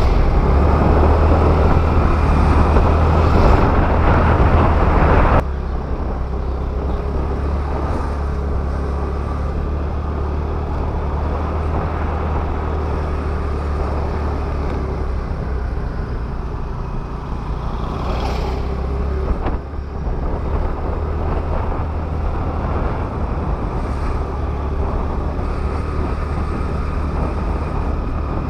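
Wind rush and the hum of a Honda Activa scooter while riding, a steady rumble that drops suddenly in level about five seconds in.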